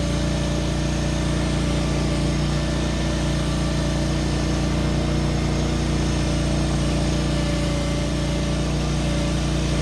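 Mini skid steer's engine running steadily under load as the tracked machine climbs a steep hill, with a constant pitch and no revving up or down.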